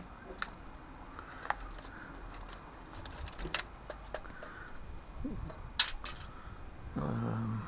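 Scattered sharp clicks and taps of plastic and metal drive parts being handled and pried apart while an optical disc drive is stripped. Near the end comes a brief louder steady hum that stops suddenly.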